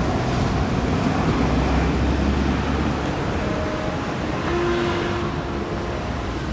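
Steady rumbling noise, heaviest in the first half. About halfway through, soft music with long held notes comes in over it.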